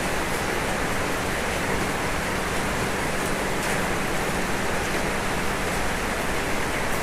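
Steady heavy rain falling on a roof: a dense, even hiss with no let-up.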